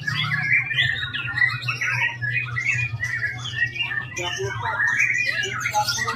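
Caged white-rumped shamas (murai batu) singing hard at a songbird contest, a dense, unbroken stream of fast, varied whistles and chattering phrases, with a steady low hum underneath.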